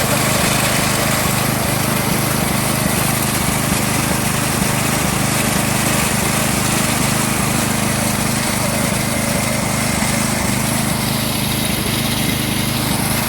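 Riding lawnmower engine running steadily and loudly, with a slight change in tone near the end.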